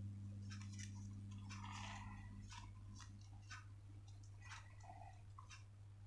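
Faint, irregular clicks and crinkles of paper being handled and creased while folding, with a slightly longer rustle about two seconds in, over a steady low electrical hum.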